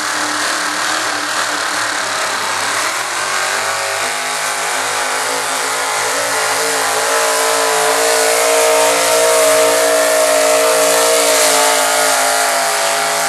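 Super stock 4x4 pulling truck's engine running at high revs during a pull, its pitch stepping up about four seconds in and again about seven seconds in, then held high and steady.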